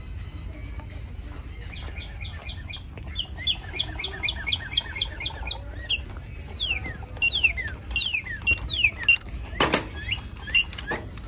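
Electronic toy bird in a cage chirping: a fast run of repeated tweets, then a series of falling whistles, with a single sharp knock about ten seconds in.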